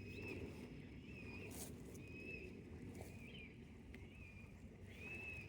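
A short, high chirp repeated about once a second from a small animal, over a low rumbling noise, with a single sharp click about one and a half seconds in.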